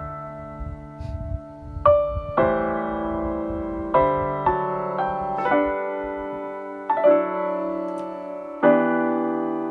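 Piano instrumental backing track playing slow chords, each struck and left to ring before the next about every one to one and a half seconds.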